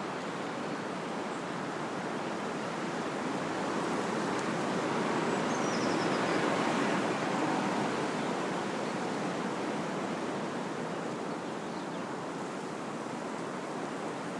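Wind blowing through trees, a steady rushing of leaves and branches that swells in a gust about halfway through and then eases.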